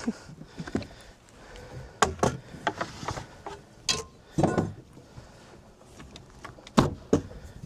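Irregular knocks and clatters of a bass being handled and laid on a measuring board in a boat, with the loudest knock near the end.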